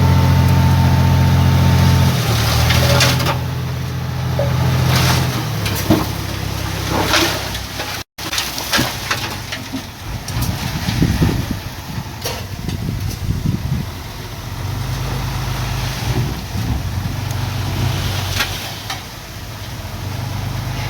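Heavy diesel earthmoving machinery running, with a low, steady engine note that changes pitch now and then, and scattered metal clanks. The sound breaks off abruptly about eight seconds in and resumes as a rougher rumble.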